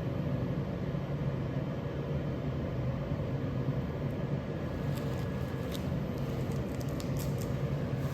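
A motor running steadily, a low hum under a rush of air, with a few faint light clicks in the second half.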